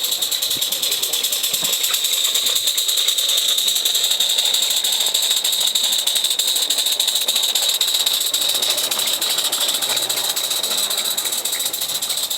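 Live-steam 16mm-scale narrow gauge model locomotive hissing steam steadily, with a fast, even beat running through the hiss.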